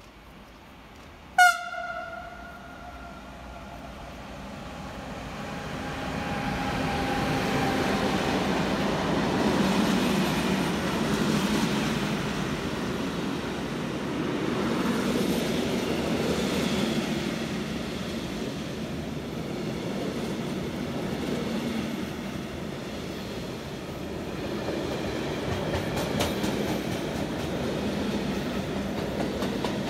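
Train horn gives one short, loud blast about a second and a half in, then a train approaches and runs through, its steady rail noise building over several seconds and continuing to the end.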